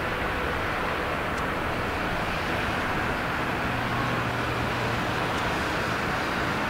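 Jet airliner landing: a steady rushing noise from its engines and airflow, with a faint low hum in the middle.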